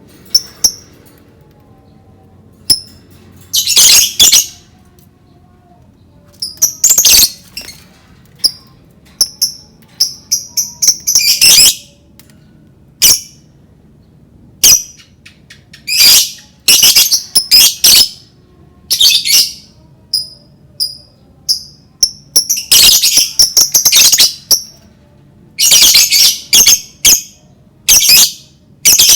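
Lovebirds calling: shrill chirps and squawks in quick irregular bursts, some running together into chattering runs of about a second.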